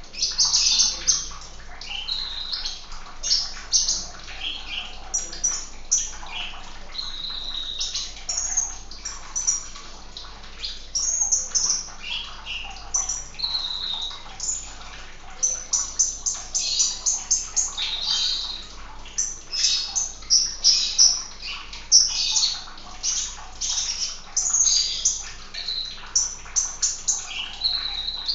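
Sunbird song: rapid, high-pitched chirps and short twittering trills in quick runs, one after another without a break.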